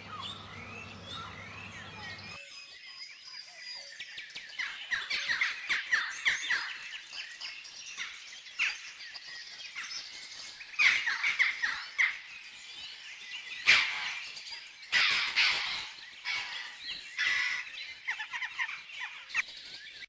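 Several small birds chirping and singing, many short calls overlapping, with louder clusters of calls in the second half. A low steady hum under the first two seconds stops suddenly.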